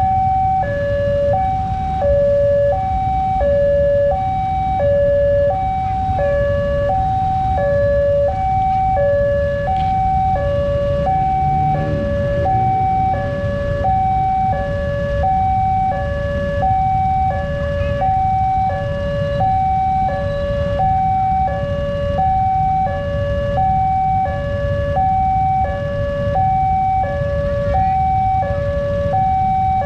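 Railway level-crossing warning alarm sounding, an electronic two-tone signal switching between a high and a low note about once a second, the warning that a train is approaching and the barriers are down. Under it runs a steady low rumble.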